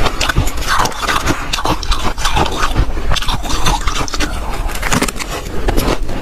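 Soft, powdery ice being bitten and chewed: a dense, unbroken run of crunching and crackling.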